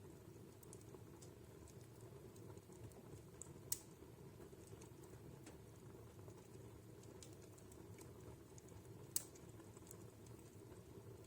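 Wood fire in a fireplace crackling faintly: scattered small ticks over a low steady hiss, with two sharper pops, one about a third of the way in and one about four-fifths through.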